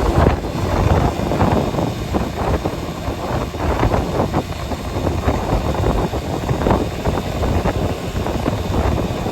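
A vehicle on the move: a dense, unsteady rumble of engine and road noise with wind buffeting the microphone and frequent small knocks.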